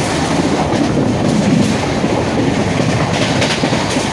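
Passenger train running at speed, heard from inside the coach: a steady, loud noise of the wheels on the rails.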